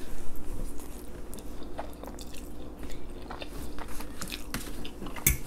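A mouthful of spaghetti with meat sauce being drawn in and chewed close to the microphone, with many small wet mouth clicks. A single sharp knock comes near the end.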